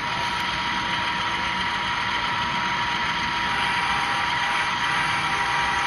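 Model train running on a layout: a steady mechanical whir with a constant high-pitched motor whine.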